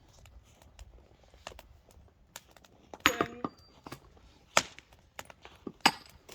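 Irregular sharp knocks and clicks, about half a dozen, the loudest about three seconds in with a brief ringing clink.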